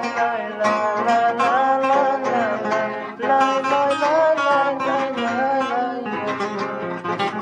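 Acoustic guitar strummed in a steady rhythm, with a melody line that slides up and down in pitch over it.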